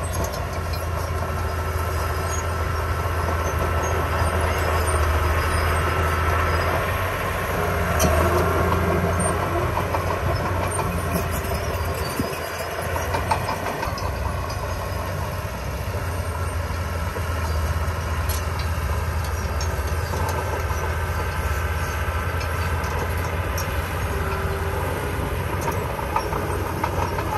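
Diesel engine of heavy earthmoving machinery running steadily, with scattered metallic clanks and rattling, dipping briefly about halfway through.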